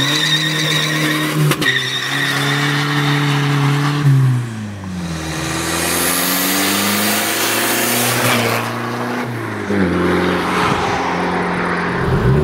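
Straight-piped VW Pumpe-Düse TDI four-cylinder diesel, with a GTB17 turbo, revving hard. It is held high for about four seconds, drops away, climbs again, and falls off about two seconds before the end.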